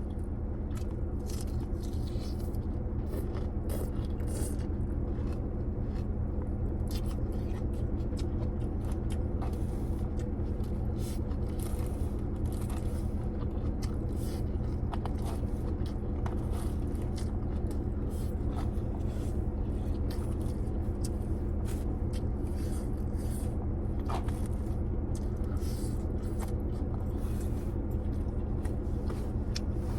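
Close-up eating sounds: irregular scraping, clicking and crunching of food and a utensil or container, with chewing, over a steady low hum.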